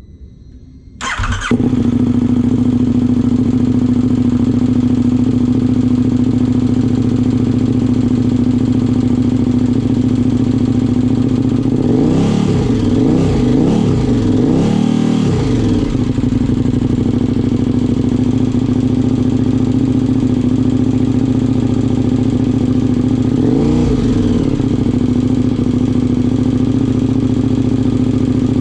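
A 2020 KTM 1290 Super Duke R's V-twin, breathing through an Arrow Pro Race slip-on exhaust, cranks briefly and catches about a second in, then idles steadily. It gets a run of quick throttle blips about halfway through and one more blip near the end.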